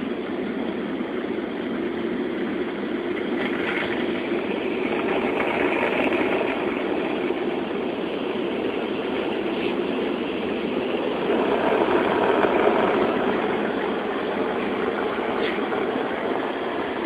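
Automatic car wash machinery working over the car, heard from inside the cabin: a steady rushing noise that swells about five seconds in and again about eleven seconds in.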